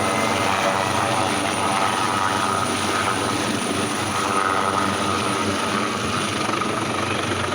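Helicopter in flight, its rotor and engine making a steady, unbroken noise.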